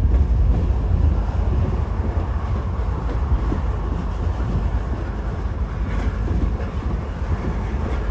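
Norfolk Southern freight train rolling past, a steady low rumble of wheels on the rails.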